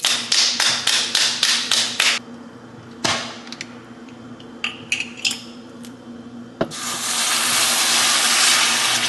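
Kitchen cooking sounds: about eight quick scraping strokes of a utensil in a pan, a knock, a few short ringing clinks of metal or glass, then a sharp knock about two-thirds in followed by a loud steady hiss.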